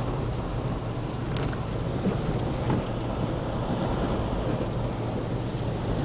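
Strong coastal wind buffeting the microphone, a steady low rumble with no let-up.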